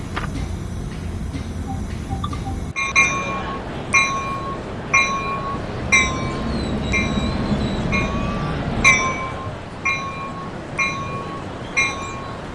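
Locomotive bell ringing steadily, about one strike a second, starting a few seconds in over the low rumble of the train.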